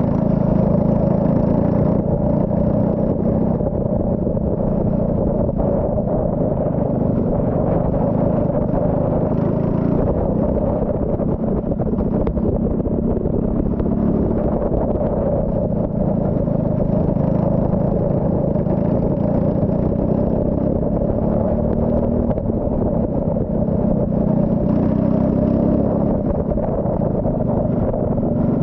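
Turbocharged Saab 9-3 race car engine running steadily on track, with only small changes in pitch.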